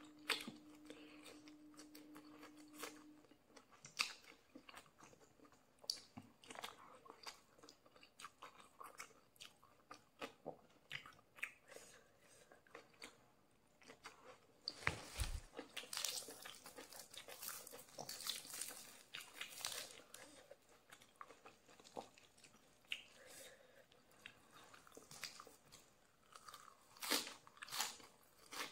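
Close-miked chewing of shrimp, with soft irregular bites and crunches, thickest about halfway through.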